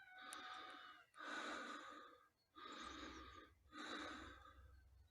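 A person breathing softly close to the microphone, four breaths of about a second each with short pauses between.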